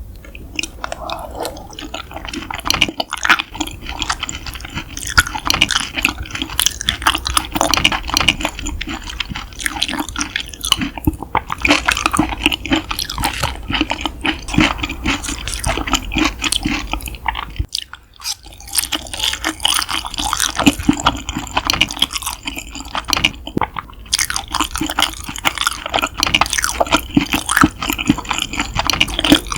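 Close-miked wet chewing of yukhoe, Korean raw beef tartare: dense, squishy mouth clicks and smacks, with a short break about eighteen seconds in.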